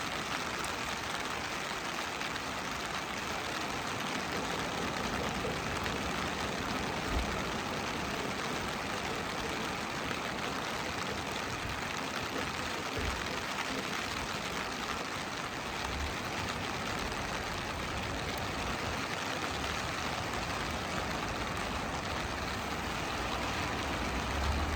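Steady rush of ocean surf on a beach, an even wash of noise, with a few brief low thumps.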